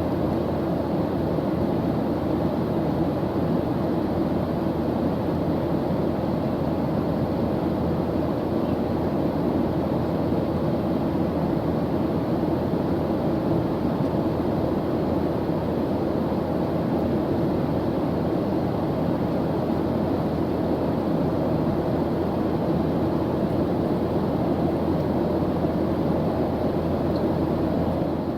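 Airplane engine noise heard from inside the cabin in flight: a constant, even, deep noise that never changes.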